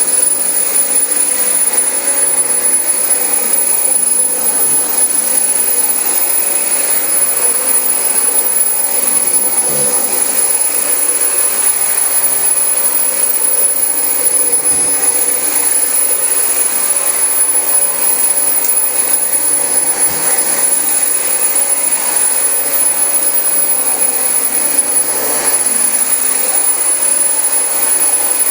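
Dyson DC25 upright vacuum cleaner running steadily while vacuuming carpet, a loud even rushing noise with a constant high whine.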